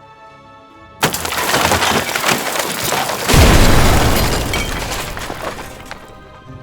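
A sudden loud crash of breaking and splintering noise over background music, with a heavier low boom about two seconds later, then fading away over a few seconds.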